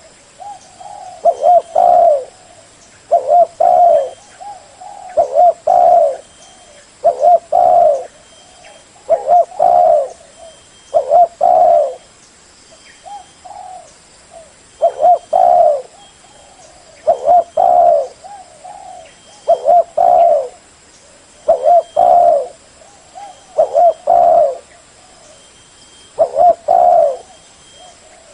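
Spotted dove cooing its song over and over, each phrase a few low coos, repeating about every two seconds, with a short pause near the middle.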